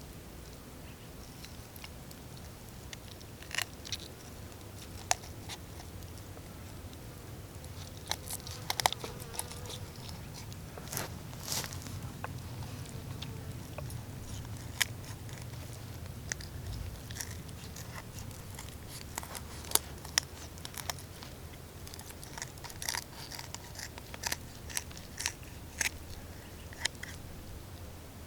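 Household scissors snipping and crunching through the rib bones along a raw chicken's backbone, in an irregular run of sharp cracks and clicks.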